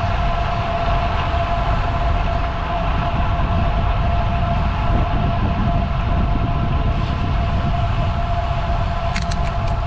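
Wind rushing over the camera microphone on a moving road bike, a heavy steady rumble, with a thin steady whine above it. A few quick clicks near the end.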